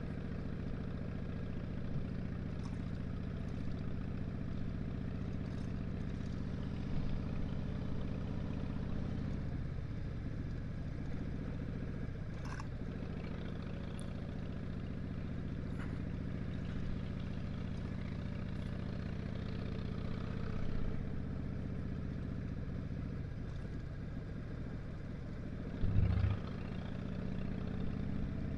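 A 2007 Harley-Davidson Dyna Street Bob's Twin Cam 96 V-twin runs at a steady engine speed, with a short low thump about 26 seconds in.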